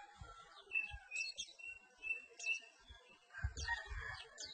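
Perci bird calling: a run of short high chirps and brief whistled notes, with a few low thumps about three and a half seconds in.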